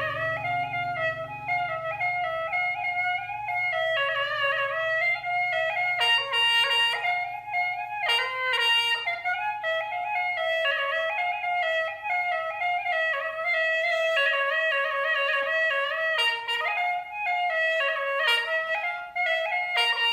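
Music: a single reedy wind instrument playing a quick melody, its notes stepping up and down several times a second.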